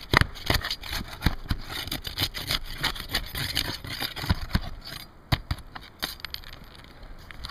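Scraping and knocking of hand tools working loose roof shingles and their nails, many short sharp strokes that thin out after about five seconds.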